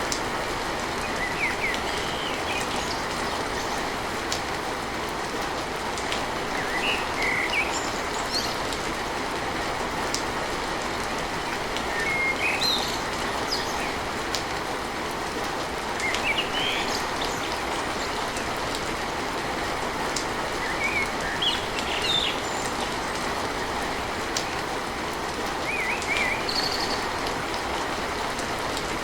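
Steady rain pattering on a tin roof, with a few short bird chirps every few seconds.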